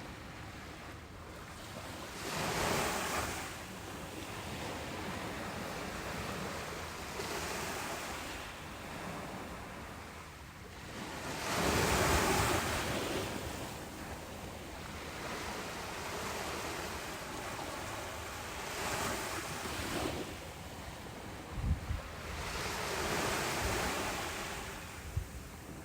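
Ocean waves breaking on a beach: a steady wash of surf with waves surging up every few seconds, the largest about twelve seconds in. Two short low thumps come near the end.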